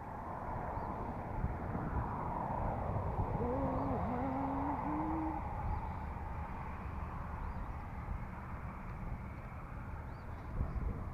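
A bird's low hooting call, a short run of notes about three seconds in, heard over a steady rushing background that swells and fades.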